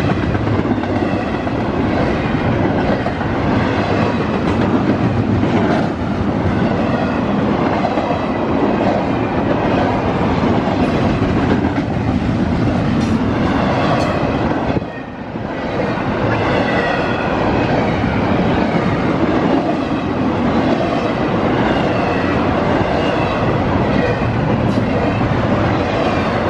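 CSX intermodal freight train rolling past at speed, its cars' wheels clattering over the rails in a continuous loud rush, with a brief lull about fifteen seconds in.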